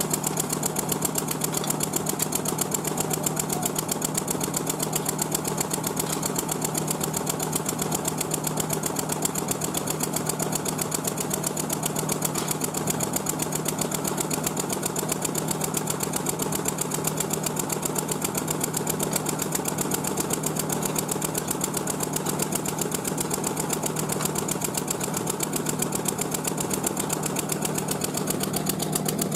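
Machinery running steadily, a constant engine-like drone with a strong low hum and a fast, even pulsing that does not change.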